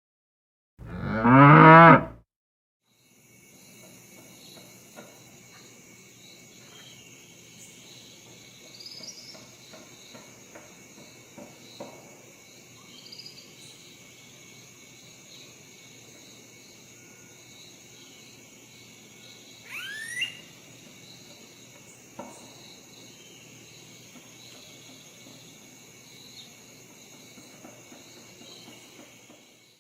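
A cow moos once, loudly, about a second in. After that, a quieter steady chirring of crickets or other insects runs on, with a few faint scattered chirps and one brief rising call about 20 seconds in.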